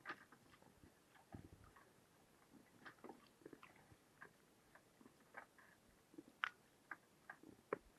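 Near silence broken by faint, irregular small clicks and taps, a dozen or so, with the sharpest two near the end.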